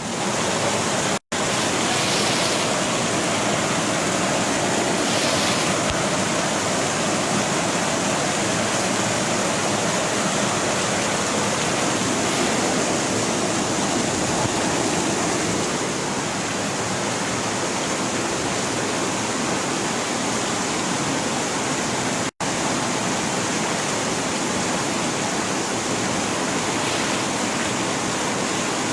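Heavy rain pouring steadily, a dense even hiss, cut off for an instant twice.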